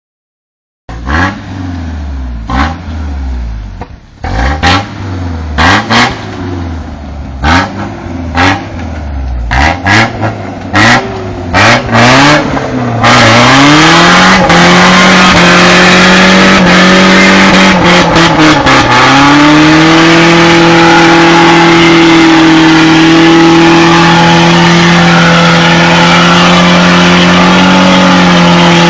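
Toyota 4x4 engine revved in short blips, with sharp cracks among them. About halfway through it is held at high revs in a loud, steady roar with hiss, spinning the wheels while the truck is hung up on its frame without traction. The revs dip briefly once about two-thirds of the way in.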